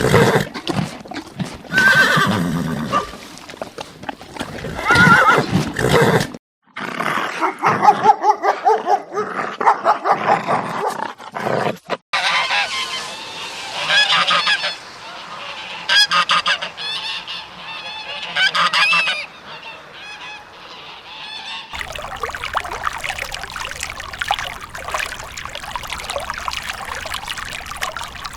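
Geese honking: a series of short, loud calls repeated over and over, in several clips joined by abrupt cuts, with a denser, noisier stretch of many overlapping calls near the end.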